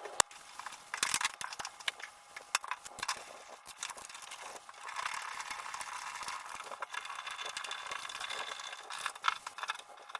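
Scattered clicks, knocks and light rattles of tools and shower valve parts being handled during a cartridge replacement, over a steady hiss that grows louder about halfway through.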